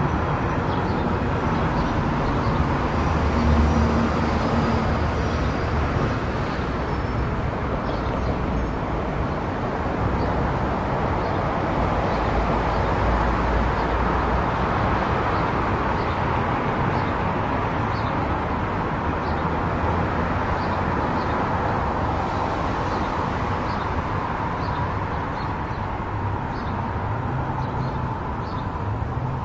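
Car driving at highway speed: steady tyre and road noise with no change in pace, and faint light ticks scattered through it.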